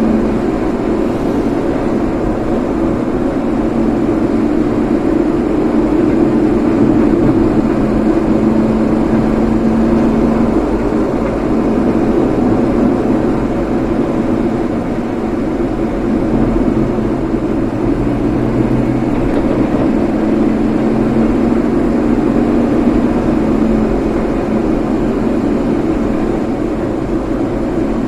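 Steady engine and road noise of a vehicle being driven, a constant hum with no breaks.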